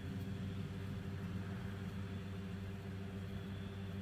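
Steady low hum of a running motor or engine, with a few steady tones held throughout.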